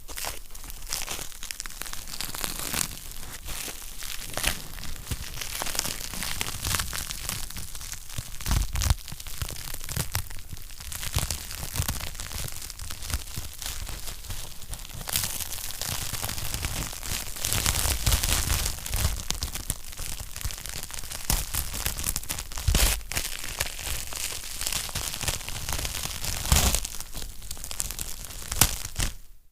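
Wood fire crackling in a fireplace: a dense, steady run of small snaps and pops over a low hiss, with a few louder pops here and there.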